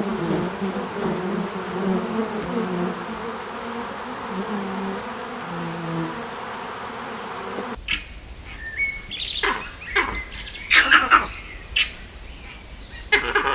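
Steady buzzing of flying insects, then, after an abrupt change about two-thirds in, a series of short, sharp bird chirps.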